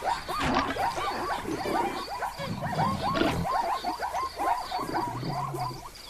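An animal calling in rapid, repeated short squeaky calls, several a second, with a faint regular high chirping above them.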